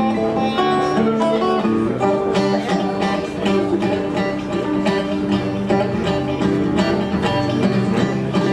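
Acoustic guitar and violin playing a song's instrumental introduction: regular strummed guitar strokes under held violin notes.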